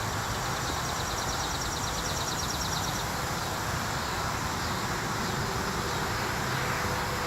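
Steady background noise with a low rumble, and a rapid high-pitched trill of quick pulses for the first three seconds or so.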